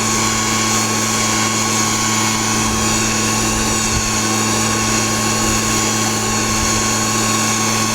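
Small gasoline engine on gold prospecting equipment running steadily at a constant speed, a continuous even hum.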